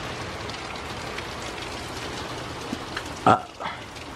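Steady rain falling in a thunderstorm, with a sudden short loud knock a little over three seconds in and a softer one just after it.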